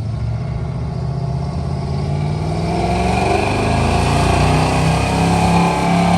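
1989 Chevrolet Caprice engine running and revving, its pitch rising slightly and the sound growing louder about halfway through.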